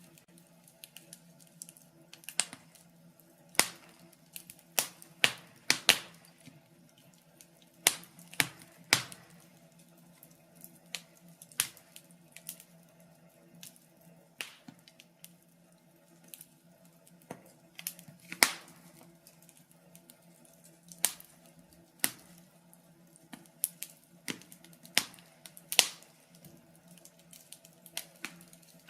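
Wood fire crackling in a fireplace: irregular sharp pops and snaps, a few every couple of seconds, over a faint steady hum.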